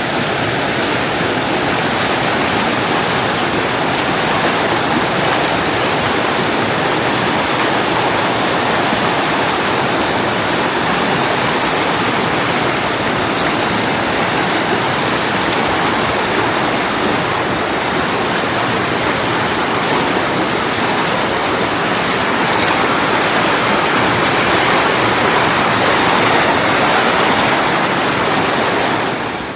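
Loud, steady rushing of fast mountain water close by, an even, unbroken wash of noise that falls away abruptly at the very end.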